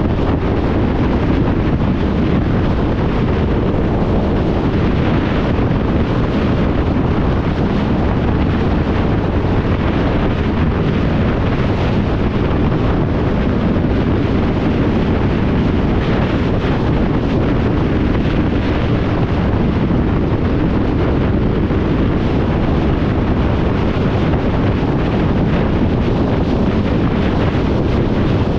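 Steady wind rush on the microphone of a motorcycle under way, with the bike and road noise blended underneath.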